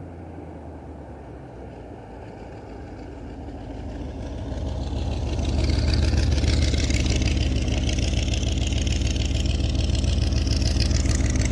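Small-block Chevy V8 (a 383) of a chopper trike running, faint at first and growing louder about halfway through, then holding a steady low rumble.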